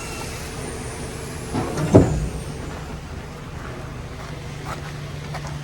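A steady machine hum with a loud knock about two seconds in and a few light clicks near the end.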